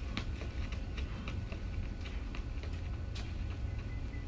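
Light, irregular footfalls of a person running a sideways karaoke crossover drill, heard as scattered soft taps, over a steady low rumble.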